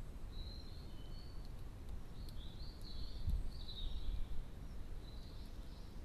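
Songbird twittering in short high-pitched phrases, in three spells, over a steady low background rumble.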